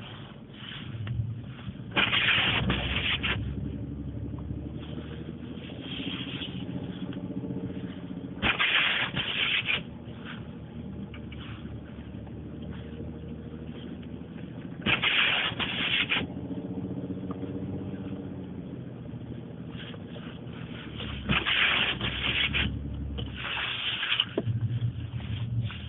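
Truck engine running, heard from inside the cab, its pitch slowly rising and falling. A loud scraping swish comes about every six seconds, five times in all.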